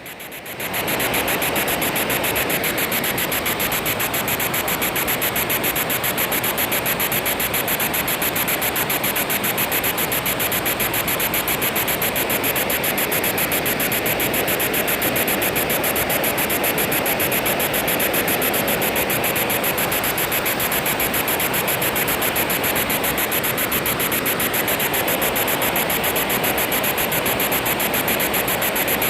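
Spirit box scanning through radio stations: a steady hiss of static, rapidly and evenly chopped, over the rush of a waterfall.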